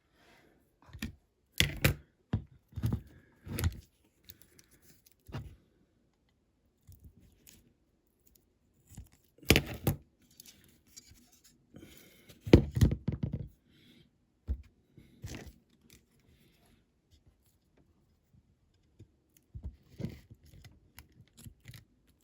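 Scattered clicks, knocks and scrapes of scissors and small tools being handled and set down on a workbench, with quiet gaps between them, while masking tape is cut to size.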